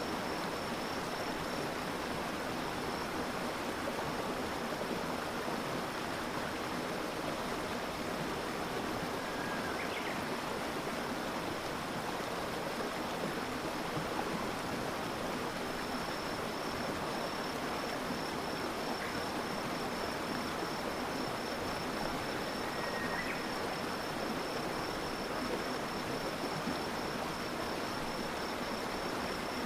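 Stream water flowing steadily over rocks, an even rushing babble that holds the same level throughout. A steady high insect trill runs over it, fainter early on, and a few short high chirps sound about a third of the way in and near the end.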